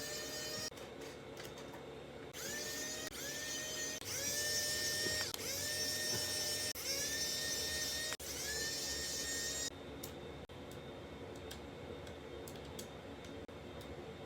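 A small handheld electric tool motor whirring in a series of short runs of about a second each, each starting with a quick rising whine as it spins up. The runs stop about ten seconds in, leaving faint ticks and clicks.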